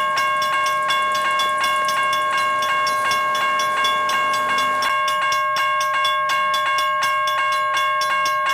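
Freight train cars rolling past, their wheels clicking evenly, about four or five times a second, under a steady high-pitched ringing squeal. The low rumble drops away about five seconds in.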